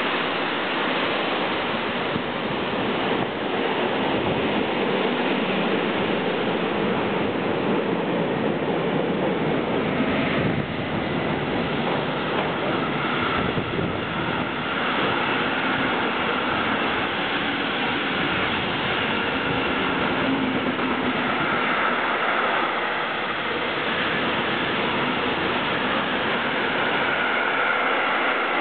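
Long freight train passing close by at speed: covered goods wagons, then container flat wagons, with a steady rush of wheels on rail.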